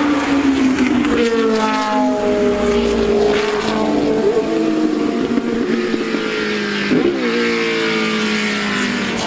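Racing car engines running at high revs on track, their pitch falling as cars pass and change gear.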